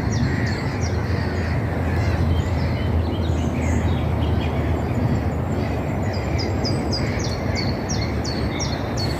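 A songbird calling in a run of short, quickly repeated high notes near the start and again in the last few seconds, over a steady low rumble.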